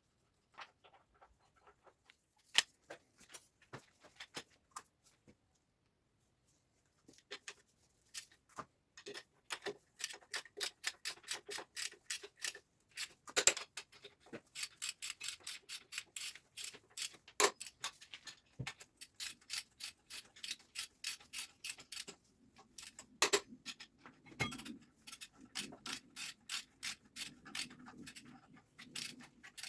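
Hand-tool work on tractor parts: scattered clicks, then a steady run of about four or five quick clicks a second through the middle, with a few sharper, louder knocks.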